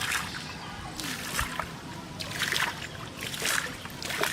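Water splashing in repeated short bursts, roughly one a second.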